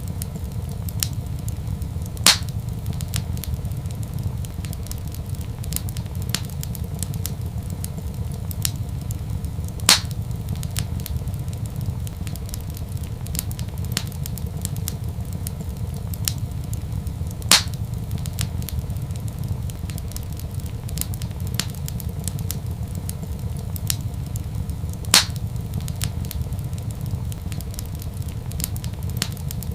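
Wood fire in a fireplace crackling over a steady low rumble, with small crackles throughout and four louder sharp pops, about one every seven and a half seconds.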